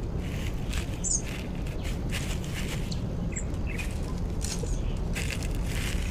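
Outdoor natural ambience: a steady low rumble with intermittent rustling, and a brief high bird chirp about a second in.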